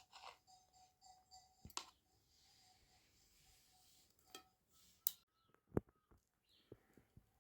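A few sharp, separate clicks over near silence, with a faint high tone coming and going in the first two seconds.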